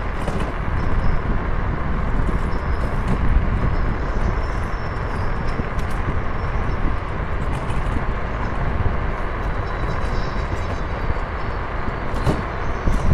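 Steady rushing noise of wind and road while riding along, heaviest in the low rumble.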